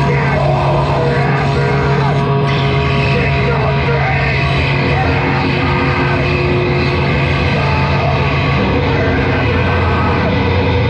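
A heavy noise-rock band playing loud and live: a dense wall of distorted sound with droning low tones that drop in pitch about two-thirds of the way through.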